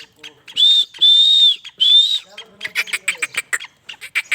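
Black francolin calling: three loud, clear whistled notes in quick succession, the middle one longest, followed by a rapid run of short clicking notes.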